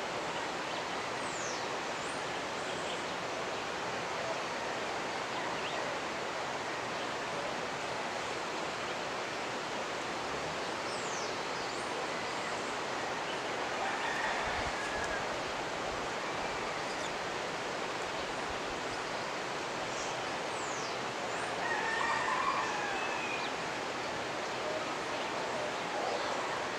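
Steady rushing of a mountain river, with birds calling over it: a few high, quick down-slurred chirps and some lower calls, one slightly louder about 22 seconds in.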